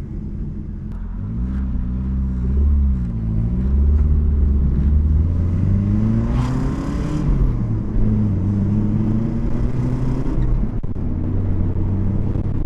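Nissan 240SX four-cylinder single-cam engine pulling under acceleration, its note rising and dropping back several times as the car is driven through the gears. A brief rushing hiss comes about six seconds in.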